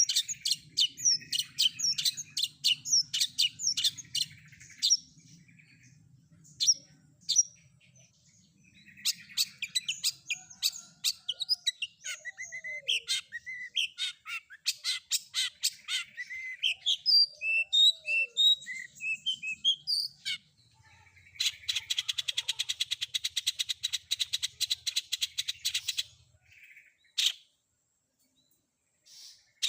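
Long-tailed shrike (cendet) song from a training recording: rapid sharp chirps, a short pause, then varied whistled and chattering notes. About twenty seconds in comes a fast, buzzy rattling trill lasting some five seconds.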